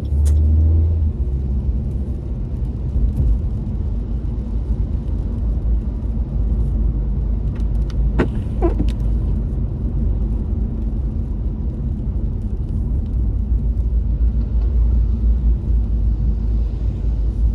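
Steady low rumble of road and engine noise inside a moving car, louder for the first second, with a brief sharp sound about eight seconds in.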